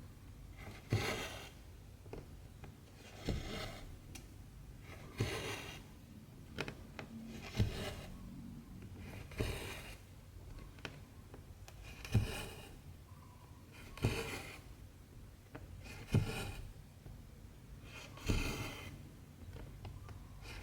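Hand cross-stitching on 14-count fabric: a needle pokes through the cloth with a light tick, then the cotton thread is drawn through with a short rasping swish, repeating about every two seconds.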